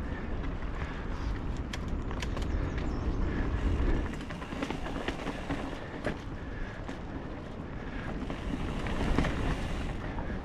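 Mountain bike rolling over a dirt singletrack trail: tyres on the ground, with frequent clicks and rattles from the bike's chain and frame over bumps, under heavy wind rumble on the microphone that is strongest in the first few seconds and again near the end.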